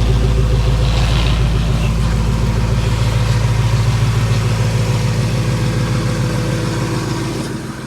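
Lexus LS430's 4.3-litre V8 idling after a cold start, through an exhaust with the resonator and muffler deleted: a steady, deep exhaust note. It fades slowly and drops off more clearly near the end.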